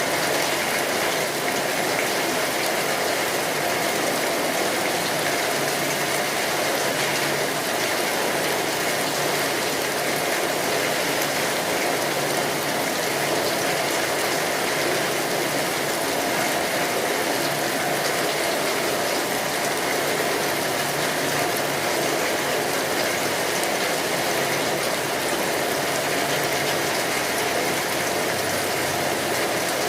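Steady rain falling on a tin roof: an even, dense patter of many small drop clicks that does not let up, with a wood fire crackling alongside.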